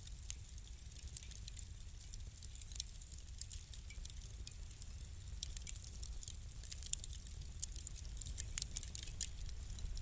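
Wood fire crackling in a fireplace: many small, irregular pops and snaps over a steady low rumble, with a few sharper pops in the second half.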